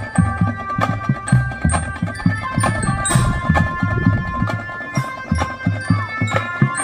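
Non-brass marching drum band playing: drums beat a busy, steady rhythm under sustained melody notes.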